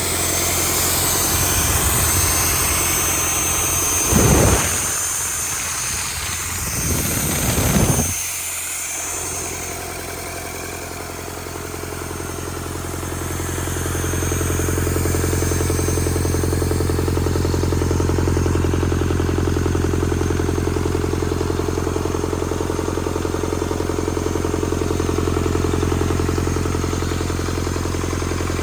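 Rebuilt Doosan D34 diesel engine running steadily on test, with two short louder bursts about four and seven seconds in.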